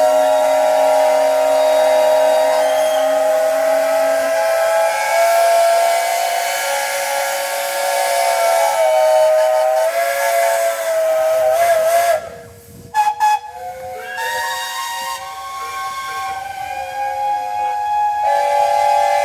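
Many traction engines' steam whistles blowing at once at different pitches, a steady chord over hissing steam. A low whistle drops out about four seconds in; around twelve seconds in most whistles cut off suddenly, then a smaller, quieter set carries on.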